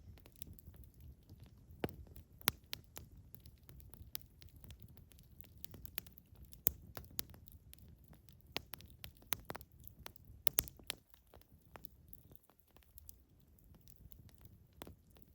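Campfire burning and crackling, with irregular sharp pops over a low steady rumble of the flames; several louder pops stand out, the strongest about two and a half seconds in and around ten seconds in.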